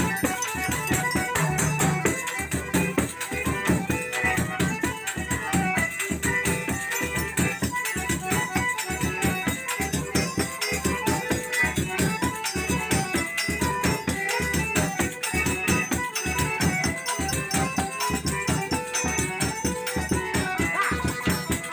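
Forró music: a zabumba drum beating a quick, steady rhythm under rattling percussion and sustained melodic lines.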